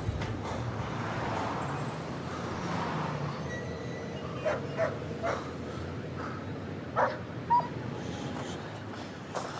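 A dog whimpering and giving a few short yips over a steady background noise, the two loudest yips about seven seconds in.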